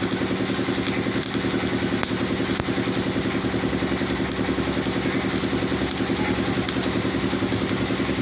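An engine running steadily at idle with a fast, even pulse, with irregular crackling over it.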